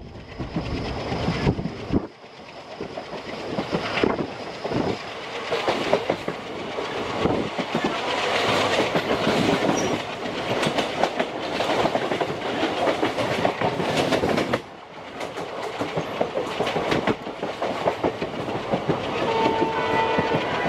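Passenger train running, heard from on board: wheels clattering over rail joints with irregular knocks and a steady rumble. Near the end a steady horn sounds.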